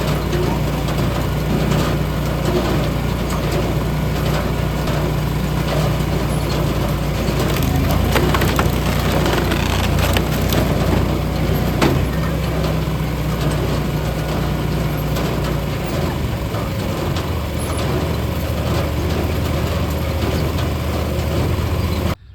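Eastonmade EVO firewood processor at work: its engine runs steadily, the note shifting about a third and two-thirds of the way through, under the cracking and crunching of wood being cut and split through the wedge, with a few sharp cracks.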